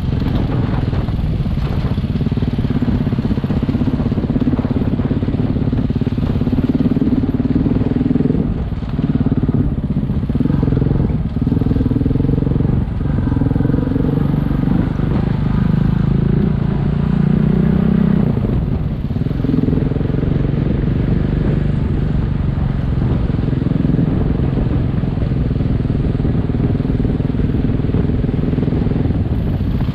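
Single-cylinder adventure motorcycle running under way, engine note rising and falling with the throttle over steady road and wind noise. The sound dips briefly a few times about a third of the way in.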